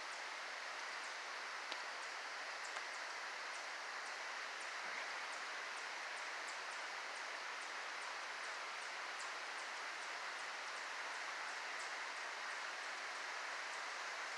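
Fast-moving stream, its water running in a steady, even rush, with faint light ticks scattered over it.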